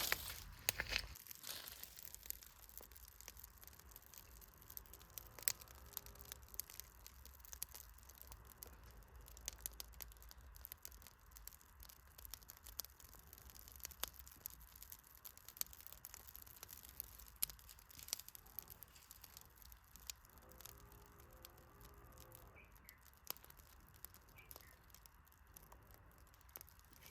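Campfire wood burning with faint, irregular crackles and sharp snaps, and a louder snap or knock at the very start.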